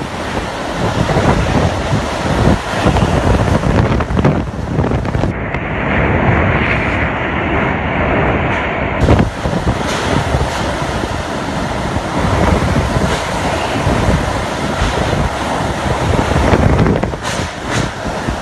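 Cyclone winds blowing hard, a dense roaring rush that rises and falls in gusts and buffets the microphone. About five seconds in the sound changes to a duller, hissier rush for a few seconds, then the heavy buffeting returns.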